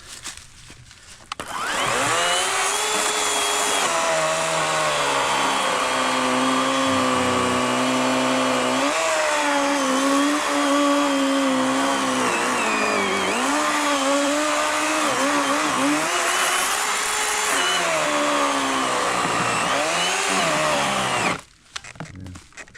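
Battery-powered WORX WG384 40-volt electric chainsaw with an 18-inch Oregon bar cutting through a fallen log. It starts about a second and a half in and stops shortly before the end, and its whine sags in pitch several times as the chain bites harder, then recovers.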